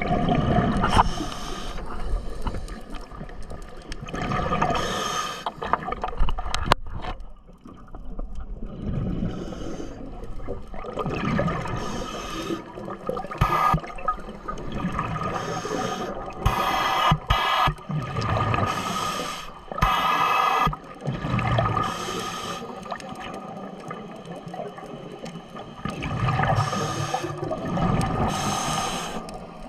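Water bubbling and gurgling in surges a few seconds apart.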